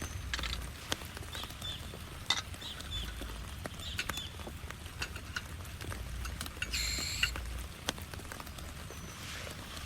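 Scattered raindrops tapping irregularly as separate sharp ticks, over a low rumble. Short high chirps come through several times, with one longer, fuller call about seven seconds in.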